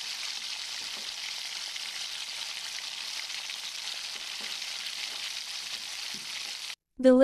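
Breaded chicken strips deep-frying in hot oil: a steady sizzle with small crackles, cutting off suddenly near the end.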